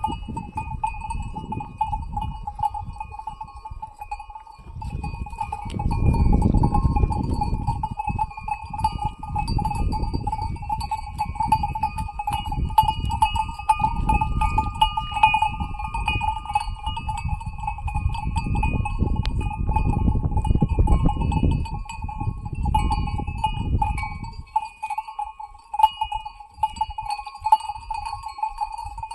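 Many livestock bells clinking and ringing together without a break, as from a flock of sheep or goats on the move. A low rumble comes and goes under the bells and dies away near the end.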